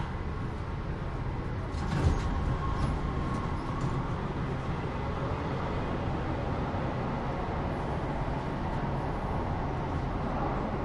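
Los Angeles Metro Rail train running: a steady low rumble with a faint high tone, and a single knock about two seconds in.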